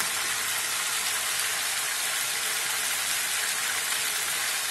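Chicken pieces frying in hot oil over a high flame, a steady, even sizzle.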